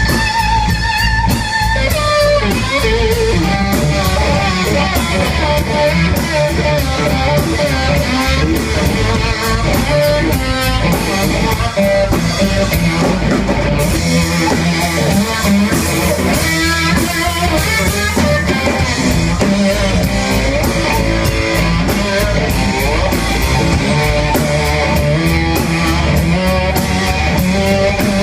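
Live band playing an instrumental passage: an electric guitar plays a lead line with bent, gliding notes over bass and drum kit.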